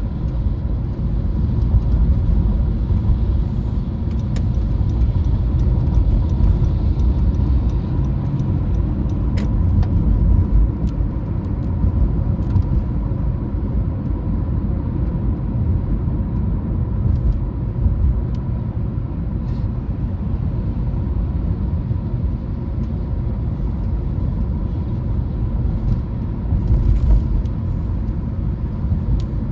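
Car on the move: a steady low rumble of road and engine noise, with a few faint ticks scattered through it.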